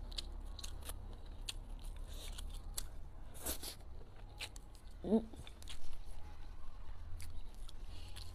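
Close-miked chewing of fried squid and shredded potato: a run of wet clicks and crunches from the mouth, with a brief hum about five seconds in.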